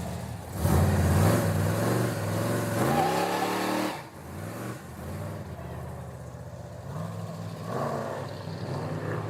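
A car engine revs up, rising in pitch for a couple of seconds, then drops off sharply about four seconds in. After that it runs more quietly at a lower, steadier pitch.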